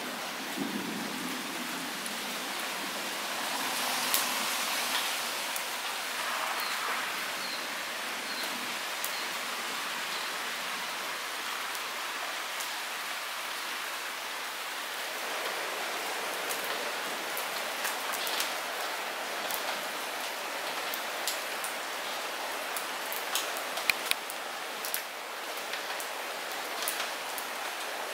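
Light rain falling steadily, an even hiss with individual drops ticking close by, the drops coming more often in the second half.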